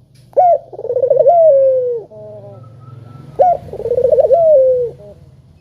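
A dove cooing two full phrases, one after the other. Each phrase starts with a sharp note, rolls into a fast purring coo, and ends on a long falling note. The phrases begin about half a second and three and a half seconds in.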